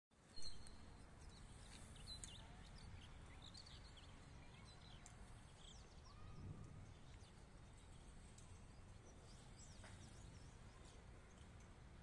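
Faint chirping of small birds, with short high calls scattered throughout, over a low steady background rumble. A brief knock right at the start is the loudest moment.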